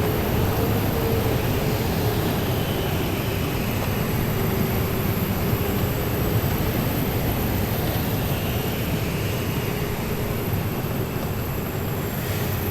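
Heavy military vehicles driving past in a column: steady, loud engine and running-gear noise with a held low-middle tone, unbroken throughout.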